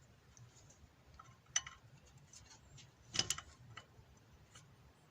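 A few sharp metallic clicks and clinks of hand tools, a socket wrench being handled while loosening nuts on the front hub: one click about a second and a half in, and a louder cluster of clinks just past three seconds.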